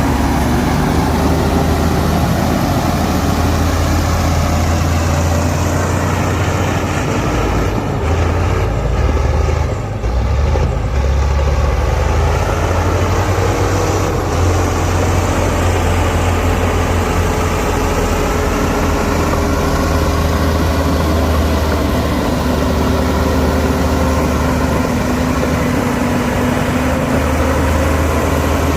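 Diesel engine of heavy earthmoving machinery running steadily under load, with a deep rumble and an engine pitch that rises and falls slowly as the revs change.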